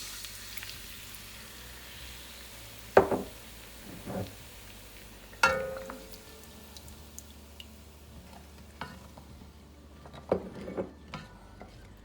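Garlic and olive oil sizzling in a cooking pot as tomato and basil spaghetti sauce is poured in and stirred, with a few sharp knocks of the jar and spoon against the pot, one of them ringing briefly. The sizzle dies away about halfway through.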